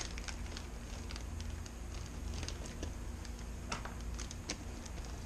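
Light, scattered clicks and rustles of small parts or materials being handled, over a steady low hum.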